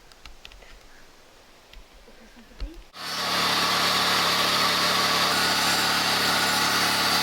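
A power tool's motor starts about three seconds in and runs loud and steady at an even speed, after a few seconds of faint clicks.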